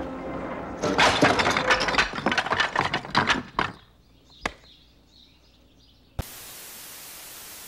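Dense crackling and snapping for about three seconds, then a lull with a single click, then a steady even hiss near the end.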